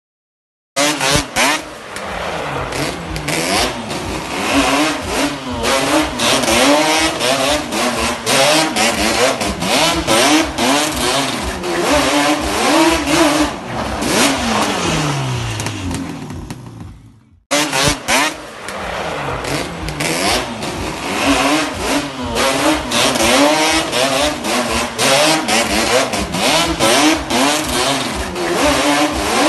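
Quad bike engine revving hard again and again, its pitch rising and falling. About seventeen seconds in it fades with a falling pitch, cuts off abruptly, then comes straight back at full revs.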